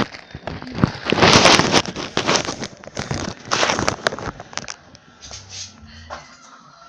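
Rustling and crinkling handling noise in several loud bursts, strongest in the first half, then dying down to a quiet background.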